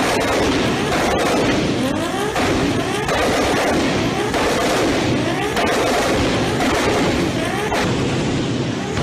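Toyota Supra's 2JZ straight-six engine revved hard again and again, its pitch climbing and falling back about once a second, with a constant crackle of exhaust pops.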